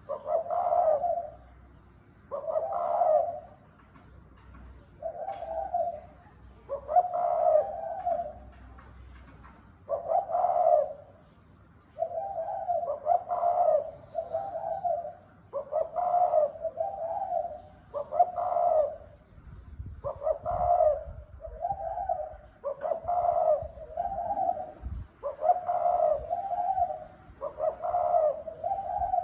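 Spotted dove cooing over and over, a short low coo phrase every one to two seconds, often in doubled phrases. This is the field dove's crowing and crooning call, used as a lure to draw wild doves.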